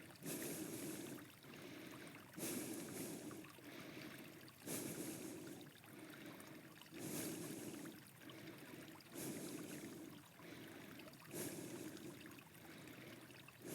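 Slow, even breathing close to the microphone: a soft breath about every two seconds, alternating stronger and weaker, as a person holds a standing forward bend.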